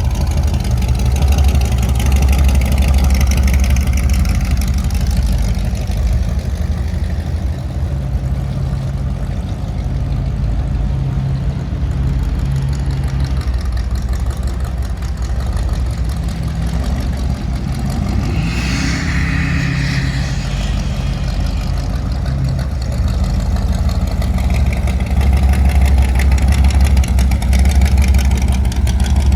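Car engine running with a steady deep rumble, louder in the first few seconds and again near the end, with a brief higher-pitched sound about two-thirds of the way through.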